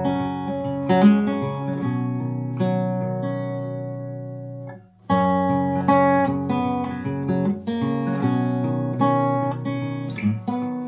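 Outro music played on acoustic guitar: strummed and plucked chords, with a short break about five seconds in before it starts again.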